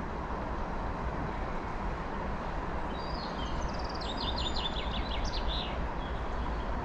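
Steady outdoor background noise, with a small songbird singing a quick run of falling chirps from about three seconds in.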